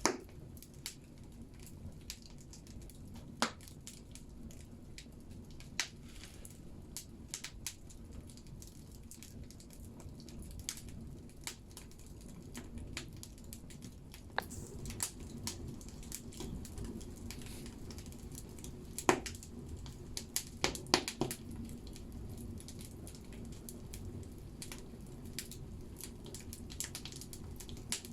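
Logs burning in a wood-fired banya stove: a steady low rumble of the fire with irregular sharp crackles and pops, and a cluster of louder snaps about two-thirds of the way through.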